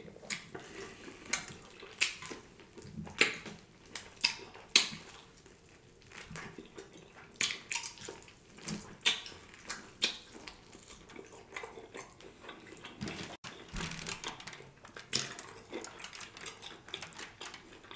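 Close-miked eating of a bone-in ribeye steak: irregular wet smacks and sharp clicks of chewing and biting as the meat is bitten and torn from the bone.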